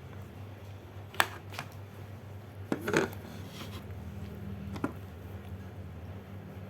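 A few sharp clicks and taps, with a louder cluster about three seconds in, over a steady low hum.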